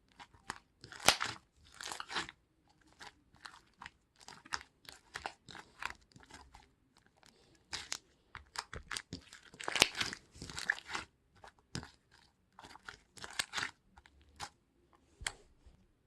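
Irregular close crunching and crackling, in uneven clusters of sharp strokes.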